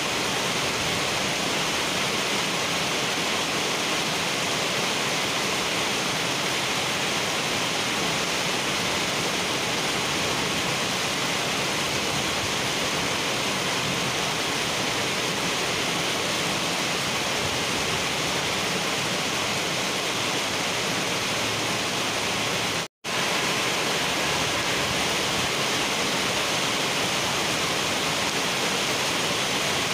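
Heavy rain pouring steadily onto a wet paved road, a dense, even hiss of drops. It cuts out completely for a split second about three quarters of the way through.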